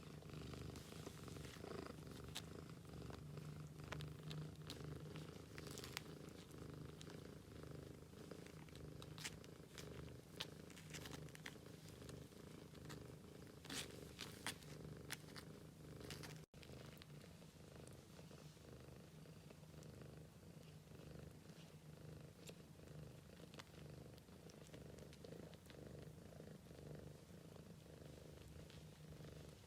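Mother cat purring steadily, with small clicks and rustles over the purr; the sound breaks off for an instant a little past halfway.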